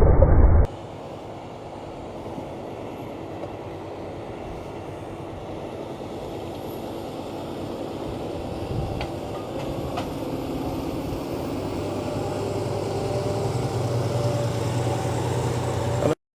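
Fendt 936 Vario tractor's diesel engine running steadily under plough load, its hum growing gradually louder as it draws nearer. A short, louder, muffled stretch at the very start cuts off abruptly under a second in.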